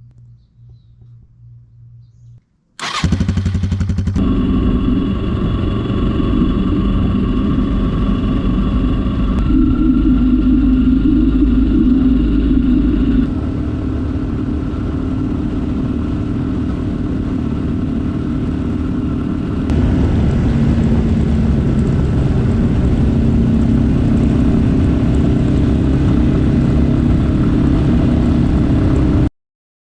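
Single-cylinder Yamaha dual-sport motorcycle engine starting up about three seconds in with a short rapid crank, then running steadily, its level and pitch shifting a few times before it cuts off abruptly near the end.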